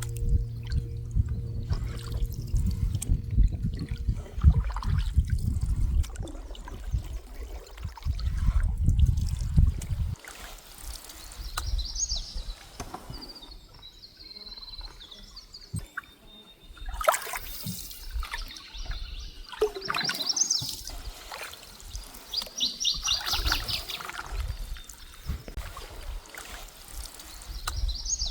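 Canoe paddle strokes, water trickling and splashing off the blade, with a low rumble through the first ten seconds. Birds chirp and trill in the second half, one with a fast even trill.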